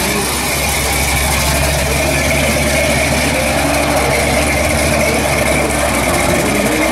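Dodge Coronet's engine running at low revs with a steady, deep exhaust note as the car rolls slowly away.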